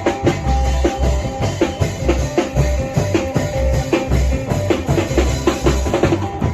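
Isan folk music from a klong yao long-drum band: deep drum beats about twice a second with sharp percussion strokes, under a plucked phin (Isan lute) melody.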